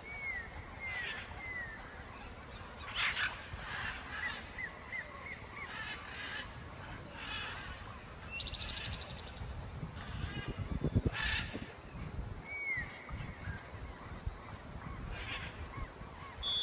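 Birds calling in the open air: a string of short falling chirps, a quick trill, and a few short, louder calls, with a low rumble underneath.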